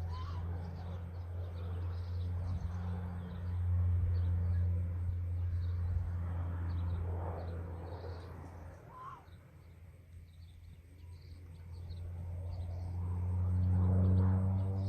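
Crop-dusting airplane's engine droning as it makes a low pass, louder for a few seconds, fading out about two-thirds of the way through, then swelling again near the end. Birds and insects chirp in the background.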